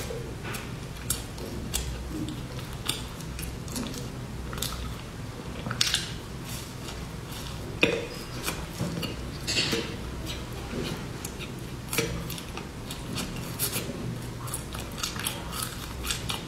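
A person crunching and chewing crisp puffed-grain candy bars: a run of irregular sharp crackles and crunches, with a few louder crunches scattered through.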